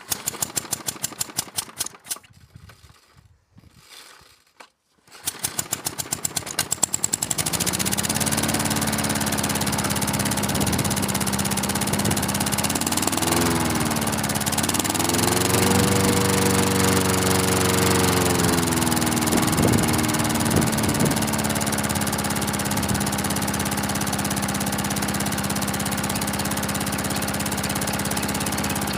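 Mountfield Emperor petrol lawnmower engine being cold-started on the pull cord. It fires and stutters out, fires again about five seconds in, then catches and settles into a steady run. Its speed surges up and down for several seconds in the middle before levelling off. It is slow to start from cold.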